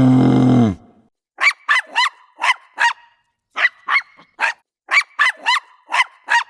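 A small dog barking: about a dozen short, high-pitched yaps in quick runs, with brief pauses between them.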